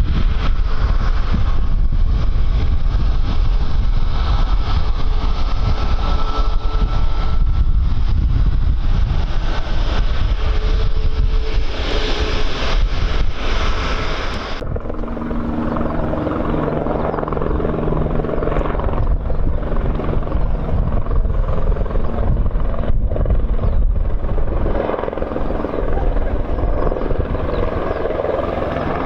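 Aircraft engines running with heavy wind buffeting on the microphone. About halfway the sound changes abruptly to a steadier engine drone carrying a few low steady tones.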